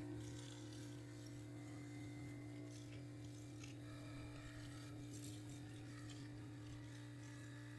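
A steady low hum with faint, scattered scraping and rubbing noises.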